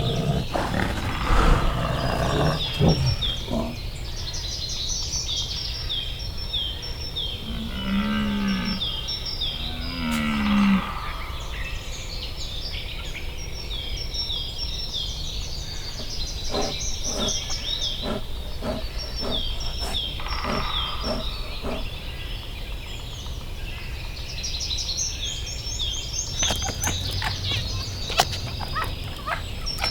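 Two short, low, moo-like calls from a large animal, about eight and ten seconds in. Under them a bird repeats a high chirp over and over, and a few knocks and rustles come near the start and near the end.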